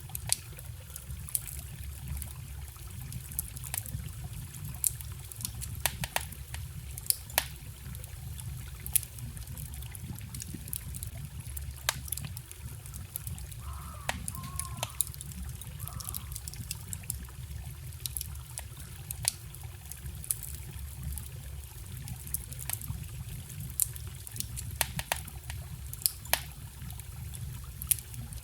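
A wood campfire crackling, with frequent sharp pops at irregular intervals over the steady low rush of a forest stream. About halfway through there is a brief faint wavering note.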